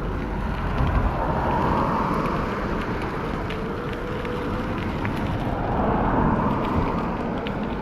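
Wind buffeting the microphone and tyre rumble from a moving e-bike, a steady rushing noise with heavy low rumble. A faint whine shows for a second or so about halfway through.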